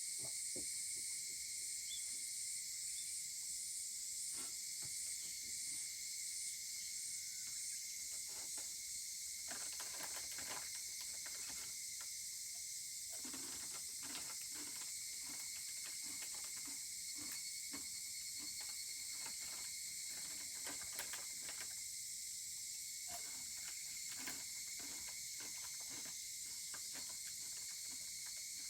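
Wood fire crackling and popping, busiest in the middle stretch, over a steady high drone of cicadas and other insects. A pulsing higurashi (evening cicada) call repeats at the start and fades away over the first several seconds.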